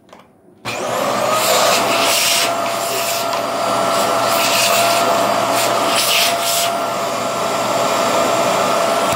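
Vacuum cleaner switched on about a second in, then running loudly with a steady motor whine and hiss, with repeated surges of hiss.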